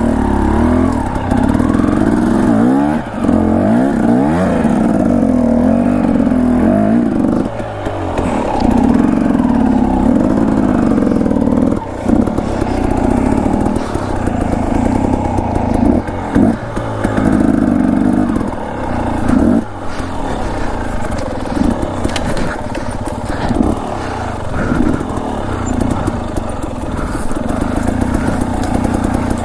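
Dirt bike engine revving up and down at low speed as it is ridden over rough, overgrown trail, with a few knocks along the way.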